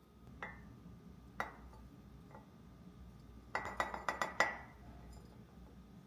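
Glassware clinking: two single ringing clinks about a second apart, then, after a pause, a quick run of clinks.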